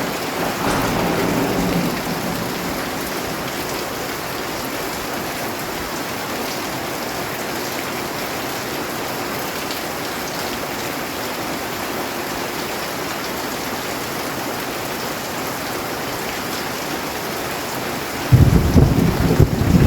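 Steady heavy rainfall, with a brief swell of low rumble in the first two seconds. Thunder breaks in suddenly near the end as a loud, crackling low rumble.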